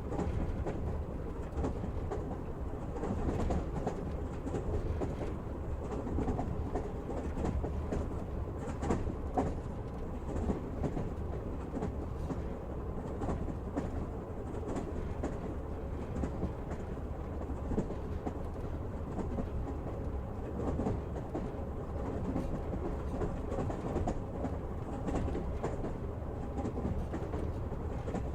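Passenger train running steadily, heard from inside a carriage: a continuous low rumble of the wheels on the rails with scattered clicks and knocks from the rail joints.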